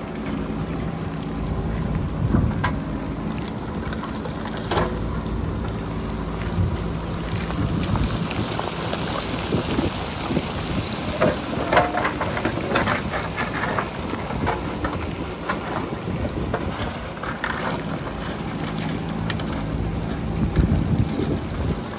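JCB backhoe loader's diesel engine running steadily under load, with wind rumbling on the microphone. A run of clattering knocks of rock against the bucket around the middle.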